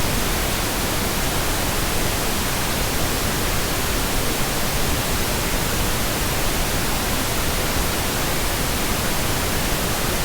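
Steady pink noise: an even, constant hiss with no tones or changes.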